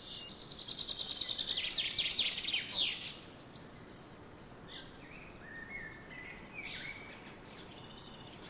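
Wild birds calling: a loud, fast, high trill in the first three seconds that builds in level and ends in a few quick downward notes, then softer scattered chirps.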